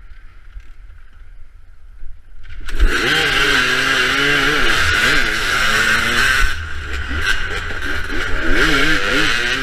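Off-road dirt bike engines revving, their pitch rising and falling repeatedly, coming in loudly and suddenly about two and a half seconds in after a faint hiss.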